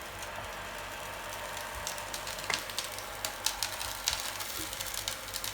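Oil heating in an electric frying pan, crackling over a steady hiss, with sparse pops that come more often toward the end as the pan heats up.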